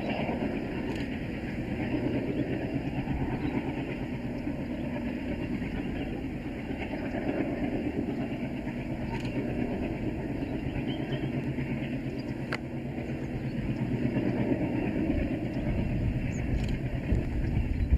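Passenger train coaches rolling across a viaduct, heard from a distance as a steady low rumble with a few faint clicks.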